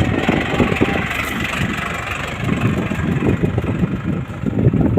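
A motor running steadily with a rough low rumble and hiss.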